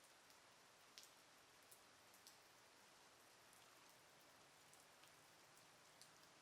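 Faint, steady rain: a soft hiss of rainfall with occasional single drops ticking sharply, about half a dozen of them.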